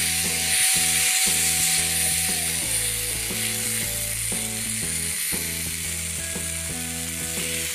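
Onion, tomato and green chilli masala sizzling in a frying pan as it is stirred and scraped with a wooden spatula, with instrumental background music.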